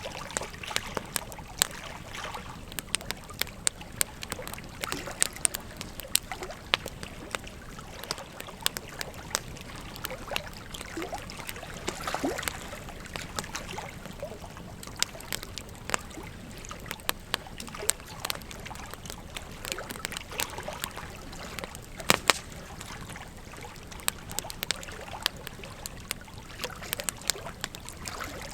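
Wood fire crackling, with sharp irregular pops and snaps, over a steady rush of flowing river water. The loudest is a quick double pop about four-fifths of the way through.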